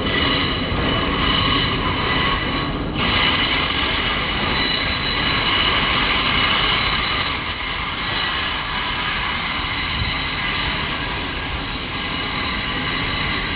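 Train wheels squealing against the rails as a train runs into the platform: a high, ringing screech of several steady tones that grows louder about three seconds in and holds.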